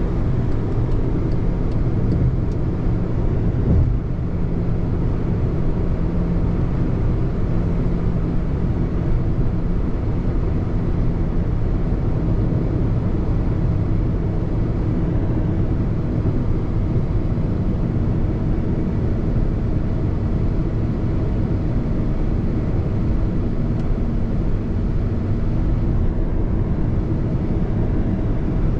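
A car driving along: steady engine and road noise with a low hum, and a brief thump about four seconds in.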